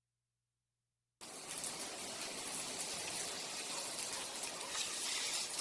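Steady hissing noise, strongest in the high range, cutting in abruptly about a second in after dead silence.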